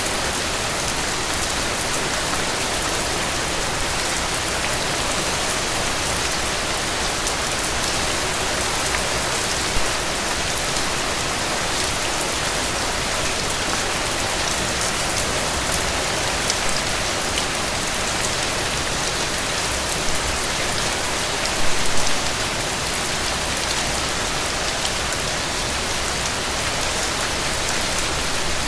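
Steady heavy rain falling on a hard surface, a dense even hiss of drops with a few louder close drop hits at moments.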